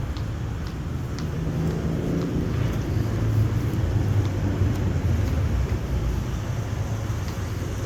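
A low engine rumble, steady with a slight swell about three to five seconds in.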